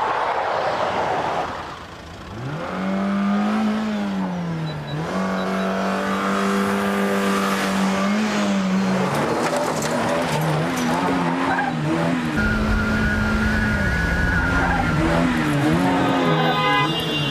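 A car engine revving hard, its pitch rising and falling again and again as the car is driven fast, with occasional tyre noise.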